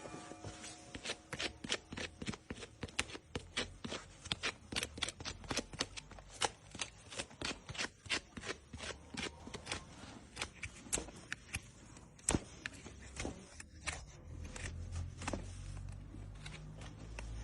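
Hoof-trimming tool working on a horse's hoof horn: a rapid run of short scraping strokes, several a second, that stops about fourteen seconds in, followed by a low rumble.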